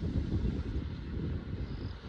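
Wind buffeting the camera microphone: an uneven low rumble that swells about a quarter second in and eases off near the end.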